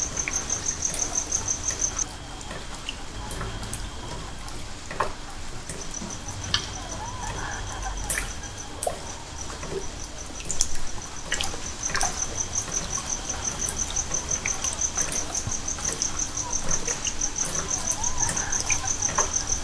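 A cricket chirping in a steady, rapidly pulsing high trill. It breaks off about two seconds in and resumes a few seconds later, over scattered faint clicks.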